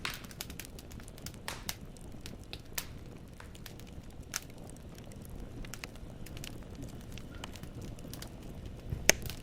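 Wood fire burning in a fireplace: logs crackling with irregular sharp pops over a low steady rumble of the flames, and one loud pop near the end.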